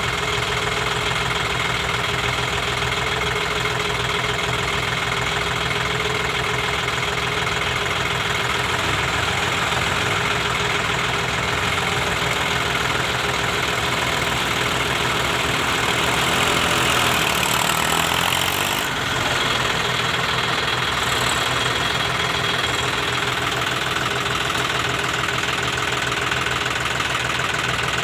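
Massey Ferguson 241 tractor's three-cylinder diesel engine running steadily while pulling a heavy load. It grows a little louder about two-thirds of the way through, then dips briefly before settling back.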